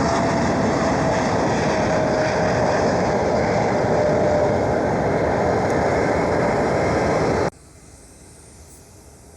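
Loud, steady jet engine noise from a large aircraft close by, with a faint whine falling slowly in pitch. It cuts off abruptly about seven and a half seconds in, leaving a much quieter steady hiss.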